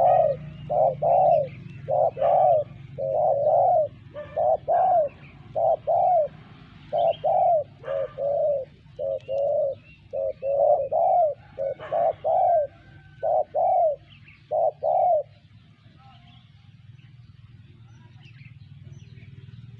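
Spotted dove (terkukur) cooing: a long series of short, repeated coos in quick groups that stops about fifteen seconds in.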